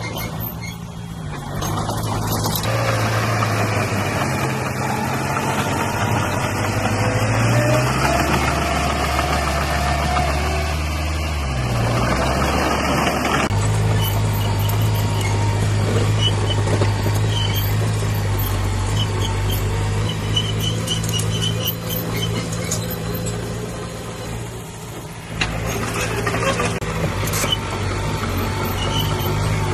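Heavy diesel engines of earthmoving machinery running under load. The engine note shifts up and down several times as the revs change, with a sudden change about 13 seconds in.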